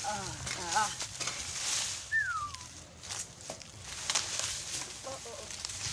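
Bird calls: a few short rising-and-falling notes near the start and one clear falling whistle about two seconds in, with more short calls later, over scattered scraping and rustling among garden plants.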